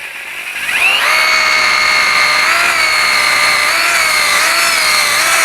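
Rotary hammer drilling into a fireclay brick. The motor spins up over the first second to a steady whine, and its pitch sags briefly twice as the bit bites.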